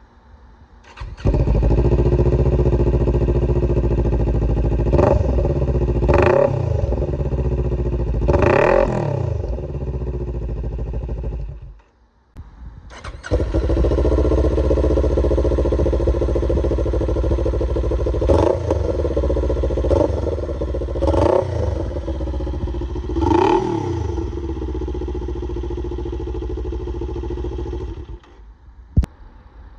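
Kawasaki Ninja 400/Z400 parallel-twin motorcycle engine running through an aftermarket exhaust, blipped in several quick revs. It cuts off just before halfway, comes back about a second later with more revs, and stops near the end.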